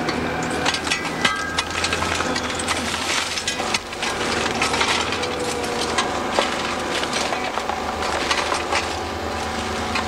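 Rubbish being rummaged and shifted by hand, with many irregular clattering and knocking sounds of debris, over the steady hum of an engine running.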